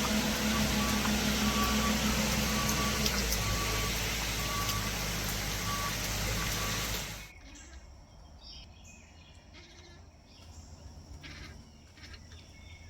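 Delivery truck's engine running with its reversing alarm beeping about once a second as it backs out. About seven seconds in the sound cuts off suddenly to a much quieter background with a few faint knocks.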